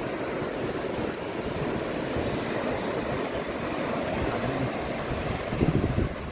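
Ocean surf washing on the shore, with wind rumbling on the microphone; a louder low rumble swells near the end.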